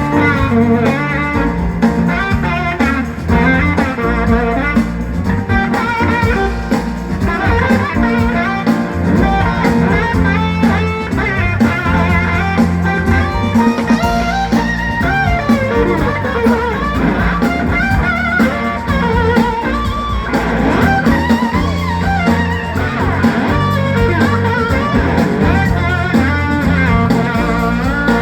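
Live band music: guitar lines over bass and a drum kit, played without vocals.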